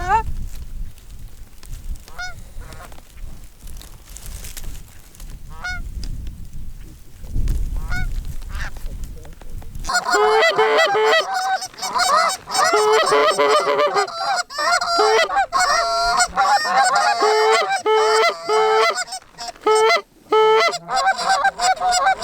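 A few scattered goose honks, then about ten seconds in a dense chorus of many Canada geese honking over one another.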